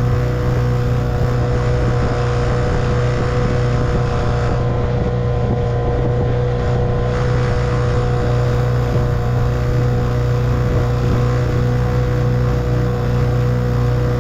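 1958 Evinrude 3 hp two-stroke outboard motor running steadily at an even speed.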